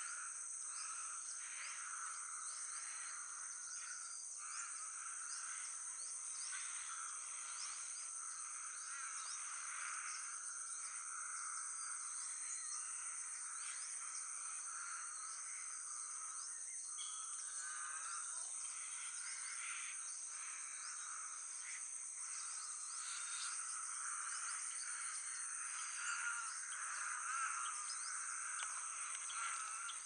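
Steady high-pitched insect chorus, crickets or similar, with many small birds chirping and calling over it. The bird calls grow busier and louder near the end.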